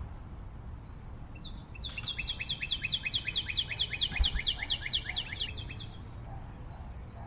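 A songbird singing one long rapid trill of short falling high notes, about seven a second, lasting some four seconds, over a low steady background noise.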